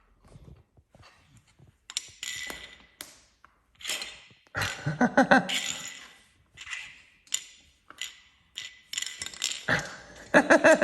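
Plastic Lego Duplo bricks knocking and clicking together as they are handled, in scattered sharp taps about a second apart.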